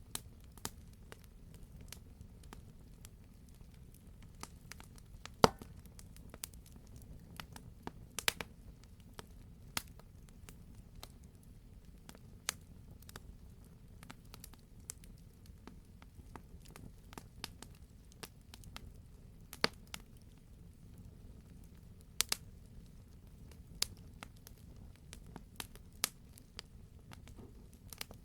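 Wood fire crackling in a fireplace: a steady low rumble of burning with sharp pops at irregular intervals, the loudest about five seconds in.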